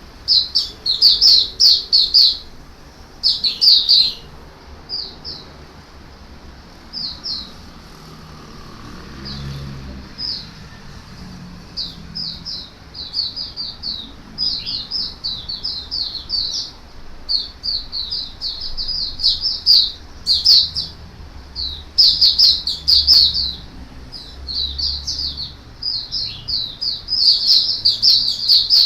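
Oriental white-eye (mata puteh) singing: quick runs of high, twittering chirps in bursts, with sparser single notes for a few seconds after the first bursts and long, dense runs in the second half.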